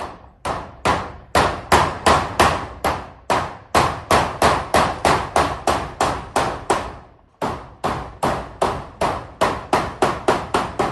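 Hammer driving nails with a steady run of quick blows, about three a second. Each blow has a short ring, and there is a brief pause a little over seven seconds in before the hammering resumes, slightly faster.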